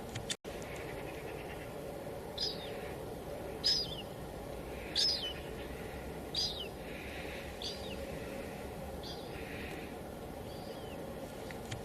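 Steady hiss of light drizzle, with a bird calling repeatedly over it: short, high, downward-sweeping chirps, about one every second and a half, starting about two seconds in. The sound cuts out for an instant just under half a second in.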